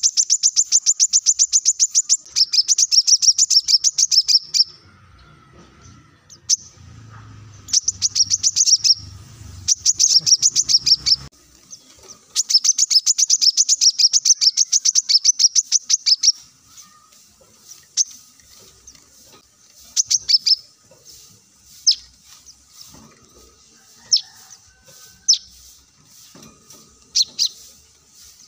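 Brown-throated sunbird (kolibri kelapa) singing: long, fast trills of high, sharp notes in several bursts over the first half, then only scattered single chirps.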